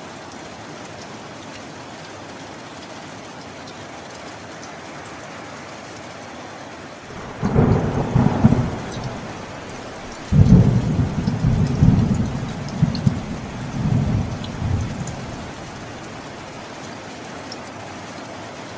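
Steady rain falling throughout, with a crack of thunder about seven seconds in, then a longer low rumble of thunder rolling in several swells for about five seconds before the rain alone is left.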